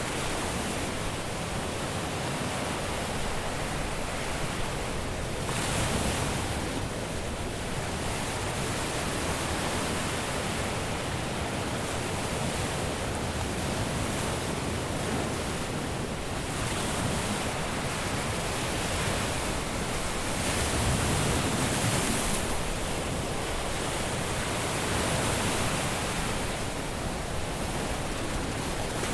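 Caribbean sea surf breaking and washing onto the beach: a continuous rushing hiss, with waves surging louder about four times.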